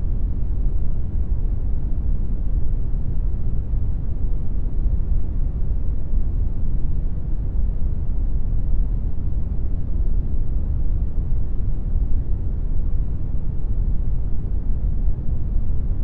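Steady synthetic brown noise: an even, deep hiss with most of its weight low down and little treble, unchanging throughout.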